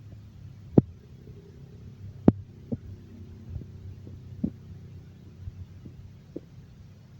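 A low steady hum with about half a dozen sharp clicks or knocks scattered through it, the loudest about a second in and a little over two seconds in.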